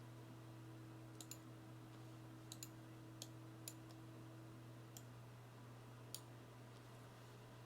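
Near silence over a low steady hum, broken by about eight faint, scattered clicks at a computer.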